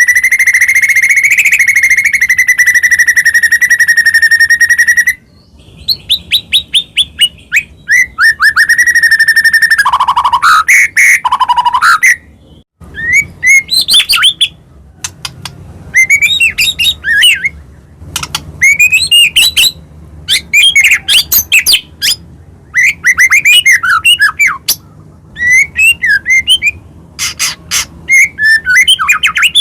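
White-rumped shama (murai batu) singing loudly. It opens with a long, even trill held on one pitch, which stops abruptly about five seconds in. Then come rapid, varied phrases of chirps and quick falling notes, with short pauses between them: a full-sounding song with plenty of 'isian' (mimicked phrases).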